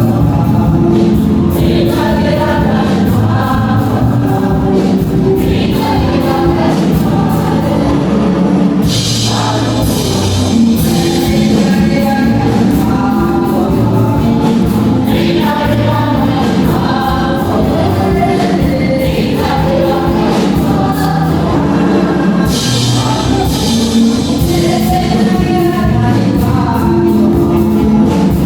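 Gospel music with a choir singing over instrumental accompaniment, playing steadily throughout.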